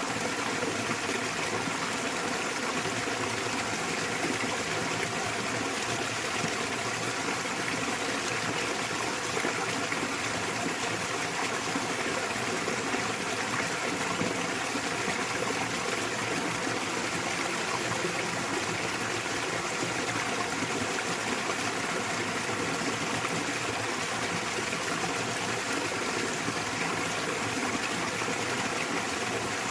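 Small waterfall spilling into a mountain stream: steady rushing and splashing water with no pauses.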